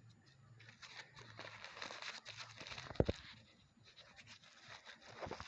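Faint scratchy rustling and scraping, with one sharp knock about three seconds in.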